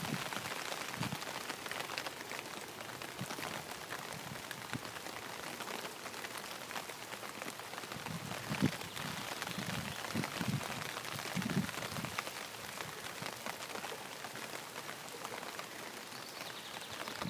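Steady rain falling on water and leaves, an even hiss of drops, with a few soft low thumps around the middle.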